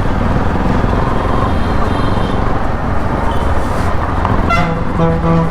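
Steady riding noise of a Bajaj Pulsar NS200 motorcycle on the move, engine rumble mixed with road and wind noise. A vehicle horn honks once for about a second near the end.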